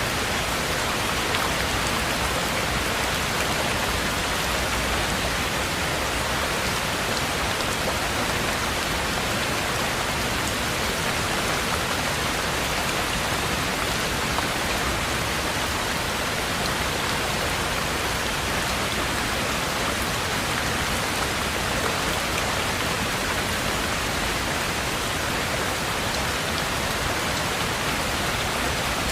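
Heavy rain falling steadily, heard from inside a treehouse cabin.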